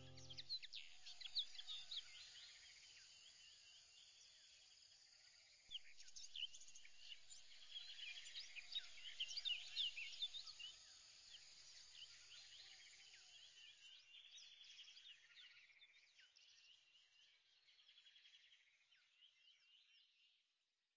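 Faint birdsong: many quick, short chirps and trills, busiest in the middle and fading away near the end. The last held note of the background music dies out just at the start.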